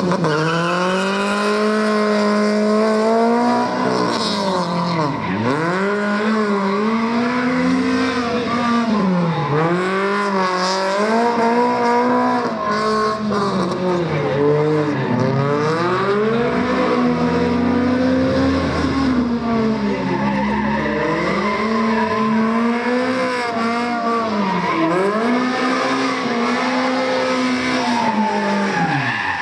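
Honda CRX's four-cylinder engine pulling hard from the start, its pitch climbing and falling back again and again as the car accelerates, shifts and slows through the course. Tyres squeal at times in the turns.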